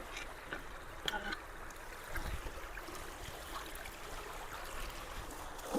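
Creek water running into a partly cleared culvert in a steady rush, with a couple of short knocks, one about a second in and one near the end.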